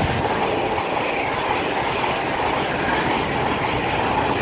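Two coupled Class 730 electric multiple units passing through the station: a steady rushing of wheels on rail, with a faint steady whine.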